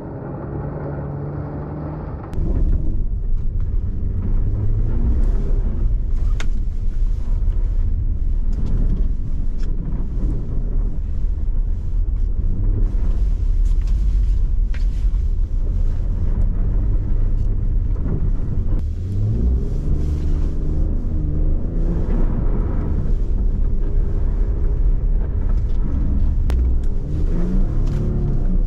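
Audi A6 C6 3.0 TFSI supercharged V6 driving with a deep, steady rumble of engine and road noise, getting louder about two seconds in. The engine note rises and falls with speed changes, rising twice late on.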